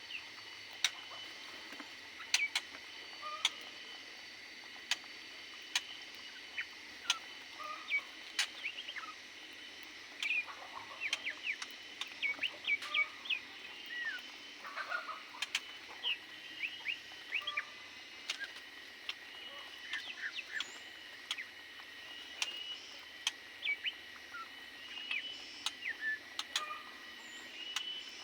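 Birds in an aviary calling with many short chirps, mixed with frequent sharp clicks and taps.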